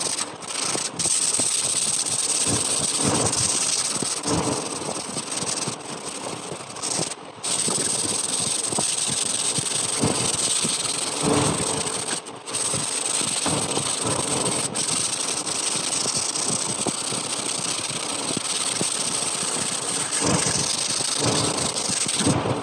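Electric sander running against wood: a steady rasping hiss with a high motor whine, broken by a few brief drops.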